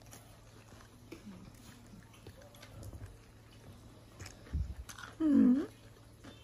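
A person chewing and biting fried chicken, with faint scattered clicks. About five seconds in comes a soft low thump, then a short, louder voiced sound that dips and rises in pitch.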